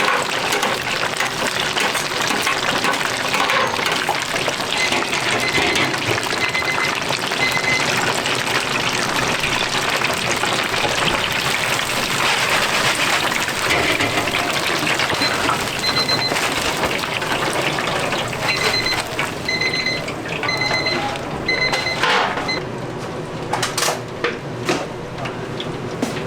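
Food deep-frying in hot oil, a dense steady sizzle, while an electronic timer beeps repeatedly in short evenly spaced runs. The sizzle drops away about 22 seconds in, followed by a few sharp knocks.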